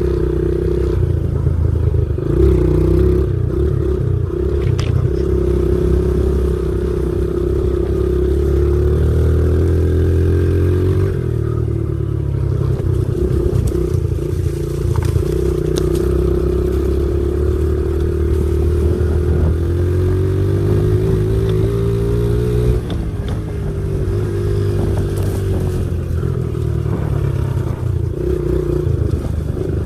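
Pit bike engine running under load as it is ridden along a dirt trail, revving up and down. The pitch climbs and drops repeatedly as the throttle opens and closes and the gears change, with a long climb and a sudden drop about three-quarters of the way through.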